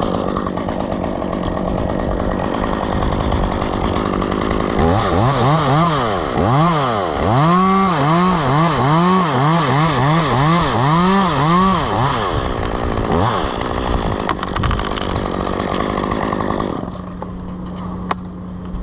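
Two-stroke chainsaw at full throttle cutting through maple wood. In the middle the engine pitch rises and falls over and over, about twice a second. Near the end it drops back to a steady idle.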